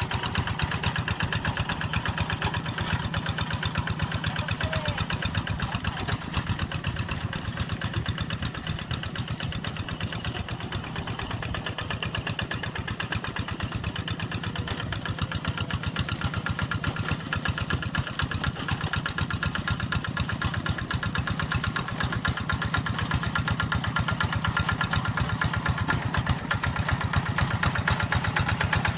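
Tractor engine running steadily with a fast, even chugging; it eases a little about a third of the way through and picks up again near the end.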